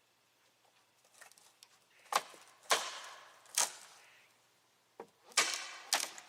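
A handful of sharp wooden knocks and clatters, about five over a few seconds, each with a short fading tail, the fourth one longer and scratchy like a board scraping.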